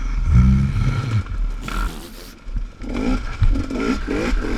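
Dirt bike engine revving up and down on a trail ride, with scraping and clattering over the rough ground.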